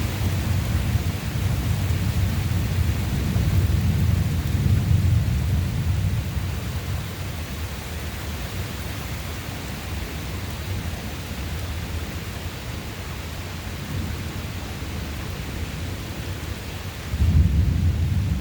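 Thunder rumbling over steady rain: a long rolling rumble fades over the first several seconds, then a new peal of thunder breaks in suddenly near the end.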